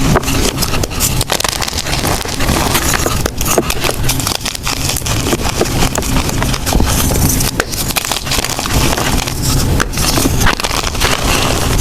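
Blocks of gym chalk being crushed and crumbled by hand: a continuous run of crunches and crackles.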